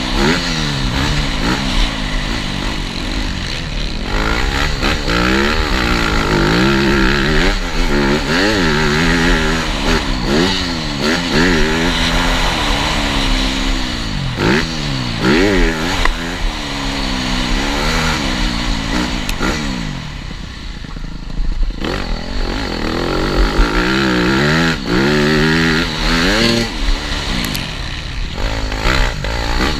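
TM Racing 250 FI motocross bike engine revving hard and easing off over and over as it is ridden around the track, its pitch climbing and dropping every second or two. Around two thirds of the way through, the engine falls quieter for a couple of seconds before revving up again.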